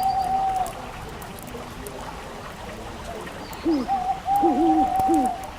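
Hooting bird calls: a wavering call held on one pitch, heard near the start and again in the second half with lower, rising-and-falling notes beneath it, over faint crackling and ticking of a fireplace fire.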